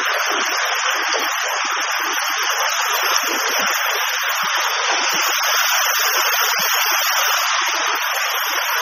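Fast-flowing floodwater rushing: a steady, loud hiss of water.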